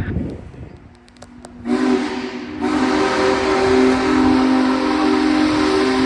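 Union Pacific Big Boy 4014's chime steam whistle sounding a chord. It fades about a second in, comes back, and from a little under three seconds in is joined by a loud rush of steam hiss while the whistle keeps blowing.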